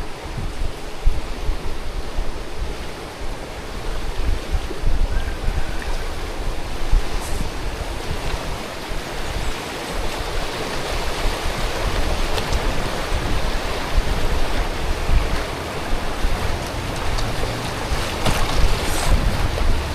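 River water rushing steadily, with irregular low rumbling buffets on the microphone.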